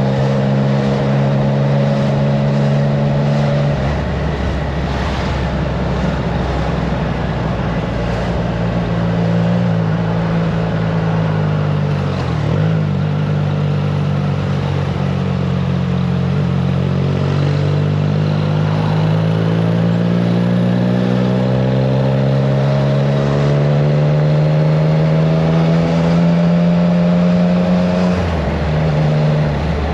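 Triumph Trident 660 inline-three engine running through a FireTong aftermarket exhaust while riding, with the engine note dipping sharply about twelve seconds in, then climbing steadily under acceleration before dropping again near the end. Wind rushing over the microphone.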